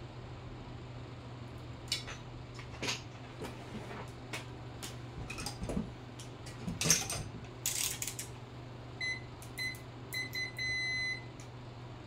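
Scattered clicks and knocks of small parts being handled, then an electronic beeper sounding several short beeps and one longer beep.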